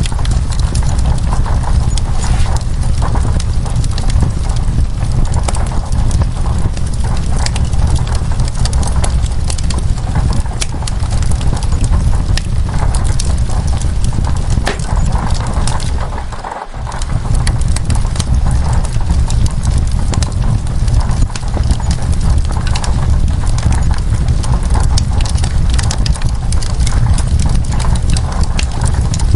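Wood fire crackling with frequent sharp pops over a steady wash of rain and a deep low rumble. The sound briefly dips about halfway through, then carries on as before.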